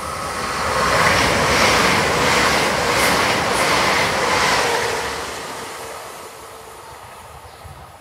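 Great Western Railway Hitachi Intercity Express Train passing at speed without stopping: the rush of wheels on rail and machinery builds for about a second, stays loud for about four seconds with a couple of brief clicks in the middle, then fades away.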